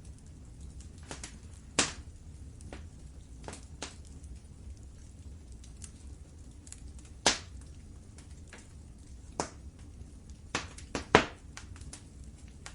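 Wood fire crackling in a fireplace: irregular sharp pops and snaps over a low steady rumble, with louder pops about 2 seconds in, about 7 seconds in and a cluster near the end.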